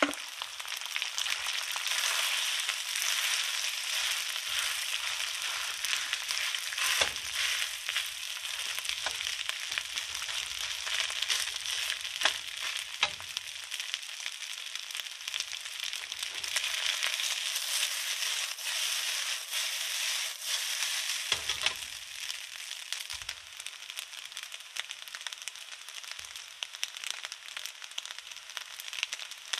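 Cooked rice frying in a hot wok, a steady sizzle that eases off somewhat a little past the middle, with a few short knocks along the way.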